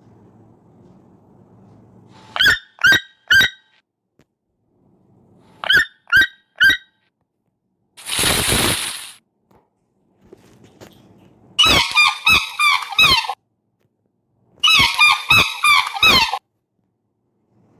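A bird calling: two sets of three short, sharp calls, then a one-second noisy hiss-like burst, then two fast runs of squeaky, honking calls.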